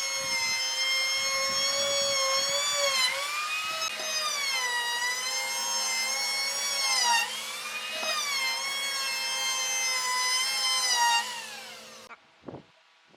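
Electric power tool motor whining at high speed while working wood, its pitch sagging and recovering several times as it takes load. Near the end it winds down and then cuts off suddenly, followed by a couple of faint knocks.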